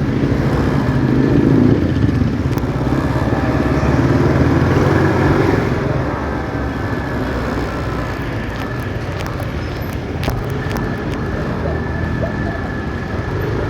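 Motorcycle riding in city traffic: steady engine and road noise, louder for the first half and then settling at a slightly lower level.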